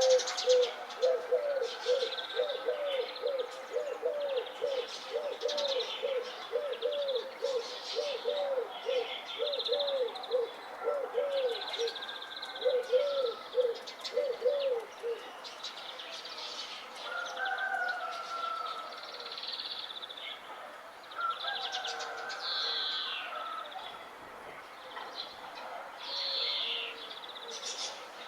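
Several birds chirping and singing, with a low cooing call repeated about twice a second through the first half that stops around halfway.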